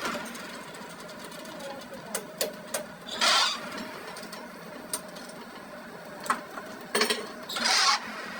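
A workshop machine running steadily with a faint constant tone. Two short, loud hissing bursts come about three seconds in and near the end, with scattered sharp metal clicks between them.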